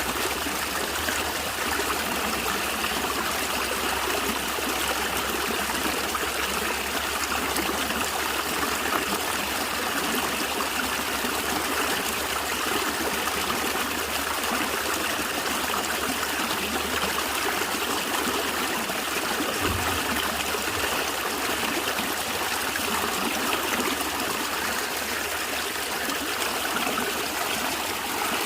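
A natural stream of water flowing and gurgling steadily.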